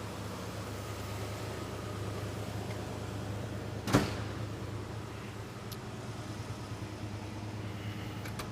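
1969 Ford Mustang Mach 1's V8 idling steadily in neutral shortly after a cold start, with one sharp knock about four seconds in.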